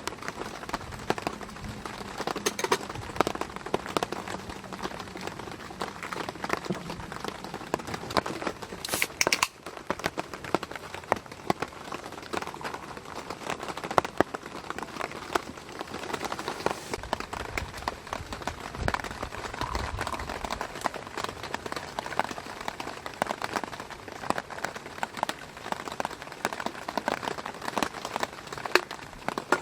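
Steady rain falling, a continuous hiss dense with irregular drop clicks.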